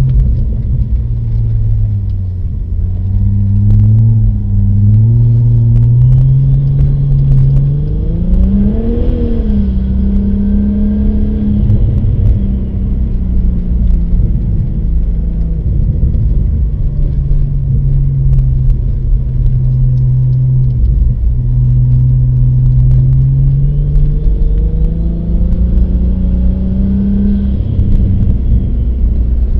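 Car engine running as the car is driven over a snow-covered ice track, its pitch rising and falling with the throttle over a steady low rumble. There is a quick rev up and back down about nine seconds in, and another climb near the end.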